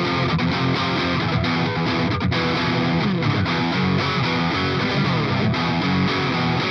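Stratocaster electric guitar played through a Valeton Dapper Mini amp- and cabinet-simulator pedal, a continuous run of notes with no pauses.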